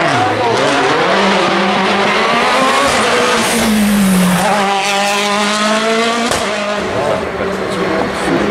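Rally car at full throttle on a stage, its engine note climbing and dropping with each gear change. About five seconds in it rises steeply through one gear, then cuts off at the next shift.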